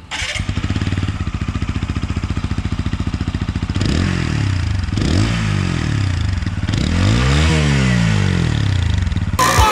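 Single-cylinder sport motorcycle engine running with a quick, even pulsing beat, then from about four seconds in the sound sweeps and shifts as the bike moves off and passes during a first-gear acceleration run.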